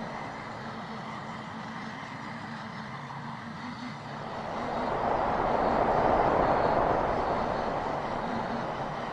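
Sampled and processed road sounds: a steady vehicle drone over a low hum, swelling into a louder rushing pass about five seconds in, then easing off.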